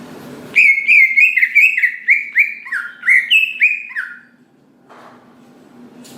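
Green leafbird (cucak ijo) singing a fast run of about a dozen loud whistled notes, each sliding down in pitch, lasting about three and a half seconds.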